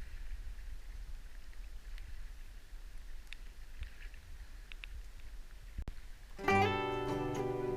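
Low rumble of wind and water with a few faint ticks while kayaking, then acoustic guitar music starts abruptly about six and a half seconds in and is the loudest sound.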